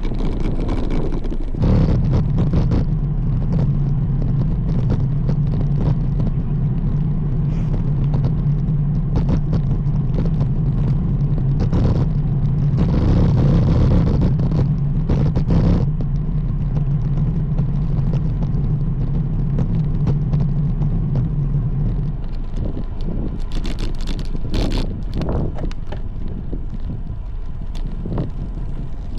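Wind and road noise from a road bike riding along, with a steady low mechanical hum that starts about two seconds in and stops about twenty-two seconds in. A few sharp crackles follow near the end.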